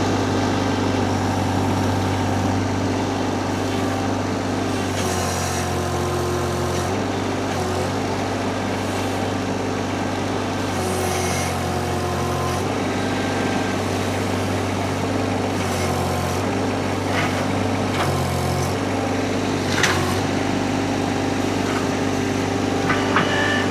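Mini skid steer engine running steadily under hydraulic load while lifting about 2,000 pounds of concrete blocks on pallet forks. Its note shifts a few times as the load on it changes, and a few short knocks come in the second half.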